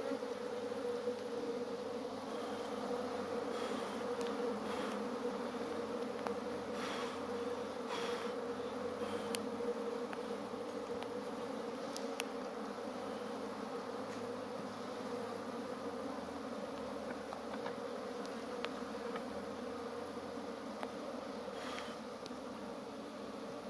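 Honey bees buzzing steadily as a mass around an open hive, a continuous mid-pitched hum. A few faint sharp clicks sound briefly over it.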